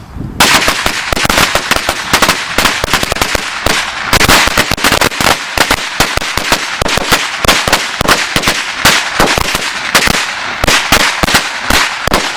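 A string of DOT Red Lantern Supercharged 100s firecrackers going off: a rapid, irregular run of loud sharp bangs that starts about half a second in and keeps going.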